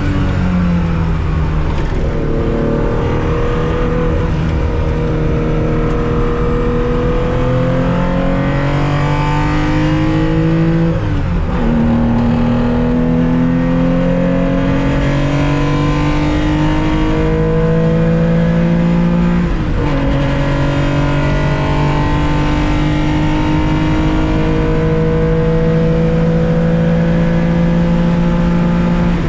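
Onboard sound of a 1965 Porsche 911's air-cooled 2.0-litre flat-six pulling hard under racing acceleration, its pitch climbing slowly. It drops sharply at upshifts about 11 seconds and about 19 seconds in, then climbs again each time.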